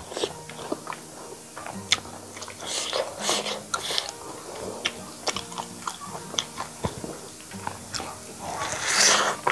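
Close-miked chewing of rice and chicken curry eaten by hand: a run of wet mouth clicks and lip smacks, with a louder noisy burst near the end as a big handful goes into the mouth. Soft background music plays underneath.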